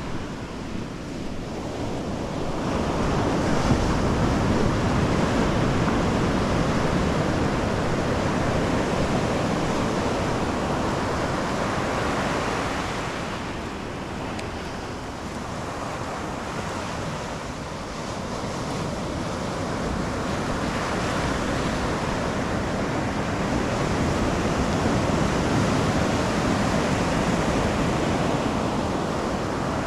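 Ocean surf breaking on a sandy beach, a steady wash of noise that swells twice as waves roll in and ease off between them, with wind buffeting the microphone.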